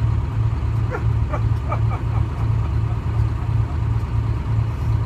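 Detroit Diesel 6V71 two-stroke diesel engine of a 1970-71 GMC New Look bus running steadily, a low drone with an even pulse.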